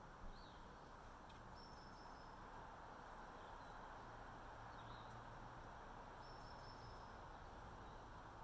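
Near silence: a faint steady forest hiss with a few faint, high bird calls, including two thin whistled notes of about a second each. A faint tap comes just after the start.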